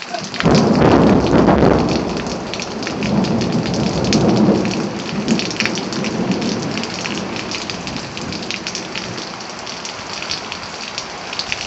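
Thunder breaks about half a second in and rumbles on for several seconds, swelling again around four seconds in before easing, over steady heavy rain.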